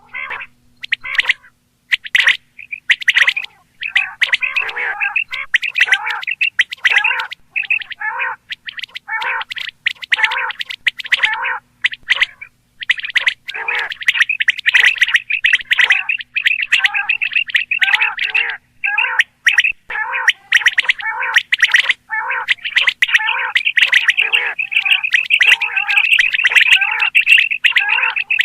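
Common quail calling: short, harsh notes repeated in quick, almost unbroken runs.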